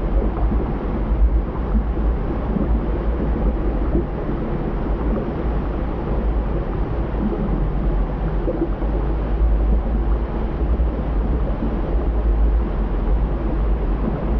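Volcanic eruption rumbling: a loud, steady, deep roar, heaviest in the low bass, with no distinct blasts.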